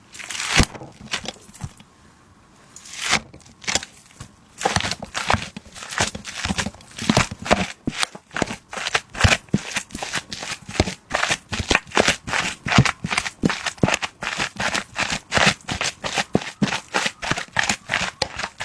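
Kitchen utensil striking repeatedly during food preparation: a few scattered knocks, then a steady run of sharp knocks about three a second from a few seconds in.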